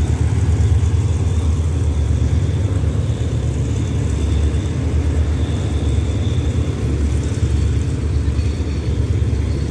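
Passenger train carriages rolling past along the platform: a steady, loud low rumble.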